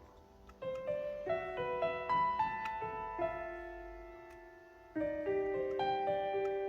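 Solo piano music: single notes and chords struck and left to fade, one phrase starting about half a second in and a second phrase starting at about five seconds after a short lull.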